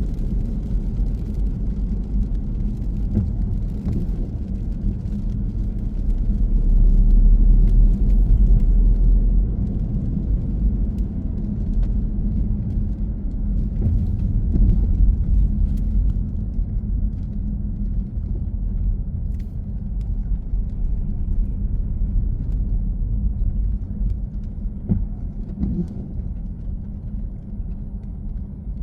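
Car driving on the road: a steady low rumble of engine and tyres, swelling louder for a couple of seconds about seven seconds in.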